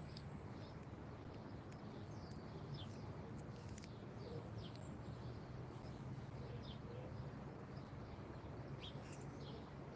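Small birds chirping: short, high, falling calls scattered through the whole stretch, over a faint steady low hum.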